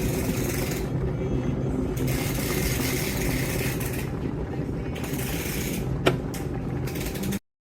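Electric household appliance running with a steady low mains hum and patches of hiss that come and go, a single sharp click about six seconds in; the sound cuts off abruptly near the end.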